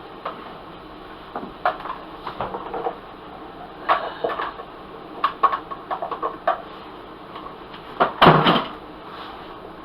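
Scattered clicks and knocks of cookware and utensils being handled in a kitchen, with the loudest clatter a little after eight seconds in.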